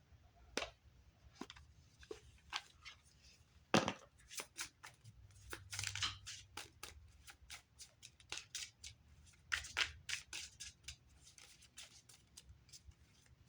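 A deck of oracle cards being shuffled and handled: a run of quick papery snaps and riffles, with one sharp slap about four seconds in.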